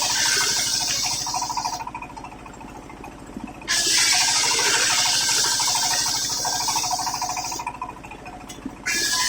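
Sawmill circular saw blade ripping waru wood into battens: a cut ends about two seconds in, a second cut runs from nearly four seconds to nearly eight, and a third begins near the end. Between cuts the blade spins free with a lower, steady hum.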